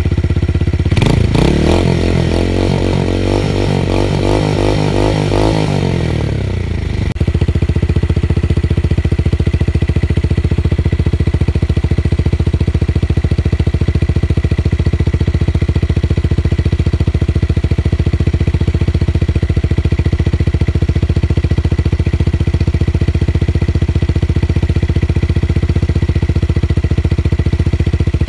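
Tuned motorcycle engine with a deep, bass-heavy exhaust note: revved about a second in, held up and wavering for several seconds, dropping back near six seconds in, then idling steadily and evenly for the rest.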